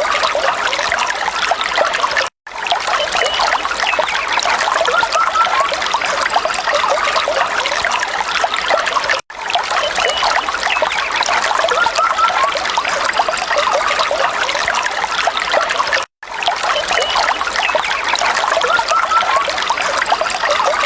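Water trickling in a small stream, a steady babble of small splashes. It cuts out completely for a split second three times, about seven seconds apart.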